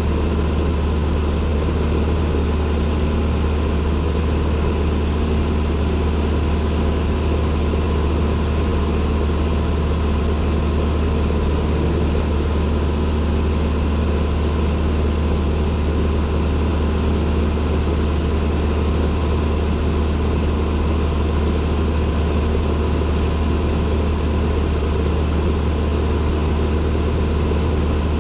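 Cessna 172N's four-cylinder Lycoming piston engine and propeller running at a steady power setting, a loud constant low drone heard from inside the cockpit.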